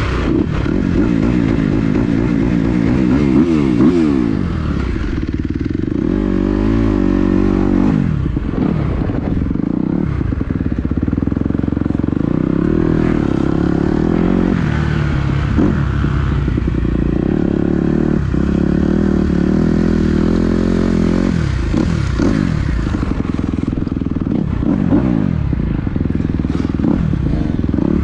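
Dirt bike engine being ridden hard, revving up and dropping back again and again, its pitch rising and falling with throttle and gear changes.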